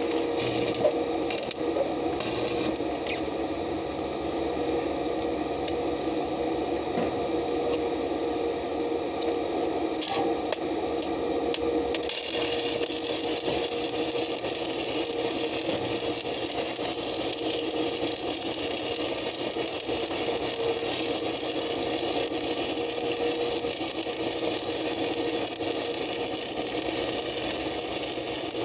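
Welding machine humming steadily; about twelve seconds in, a steady hiss starts and holds, the sound of a stick-welding arc burning.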